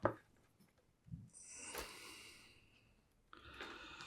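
Two faint breathy hisses, the first about a second and a half long and the second about a second, after a light click and a soft thump: a person breathing out close to the microphone.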